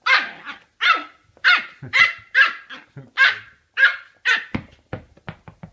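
A dog barking repeatedly, about eight barks spaced roughly half a second apart, followed near the end by a quick run of short, sharp clicks or knocks.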